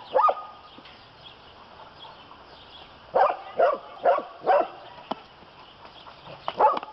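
A dog barking at a snake in short, sharp barks: one near the start, a quick run of four about three seconds in, then a few more scattered toward the end.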